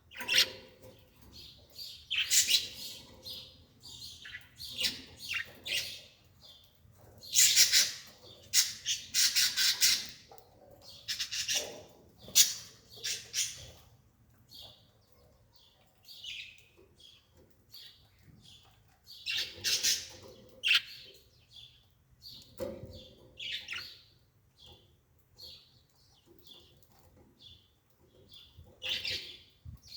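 Birds chirping and squawking in short, irregular calls, some longer and rougher, with quiet gaps between them.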